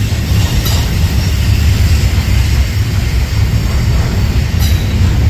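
Union Pacific double-stack intermodal train's well cars rolling past, a steady loud rumble of steel wheels on rail. Two brief high-pitched wheel squeals, one about a second in and one near the end.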